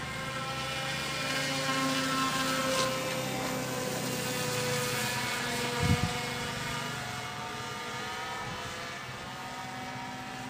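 Propeller-driven RC model airplane in flight, its motor and prop giving a steady drone whose pitch drifts slowly lower as the plane circles past. A brief low thump about six seconds in.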